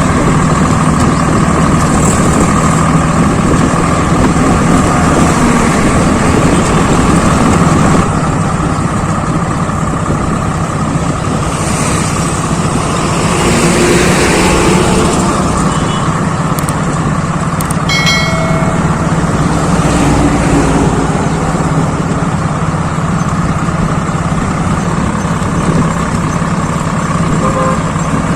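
Swaraj 855 FE tractor's three-cylinder diesel engine running steadily under work, with a noisier swell about halfway through.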